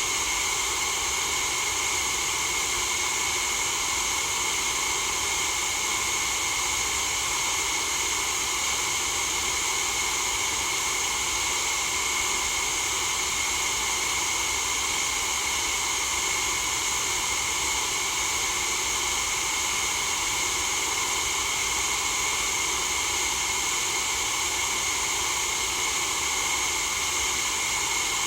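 Steady white noise for sleep: an unbroken hiss that holds the same level throughout, brightest in the treble.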